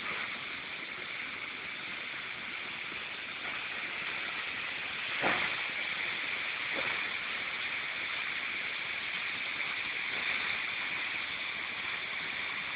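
Heavy rain pouring down in a steady hiss, with a few sharp knocks standing out, the loudest about five seconds in.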